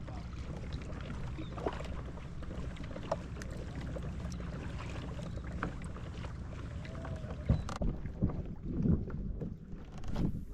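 Water lapping around a kayak, with wind on the microphone and small clicks throughout. A few louder knocks and splashes come near the end.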